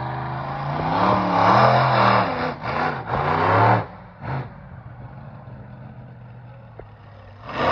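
Monster truck engine revving hard in a run of rising and falling blips for the first four seconds, one short rev just after, then settling to a lower steady run before revving up again near the end.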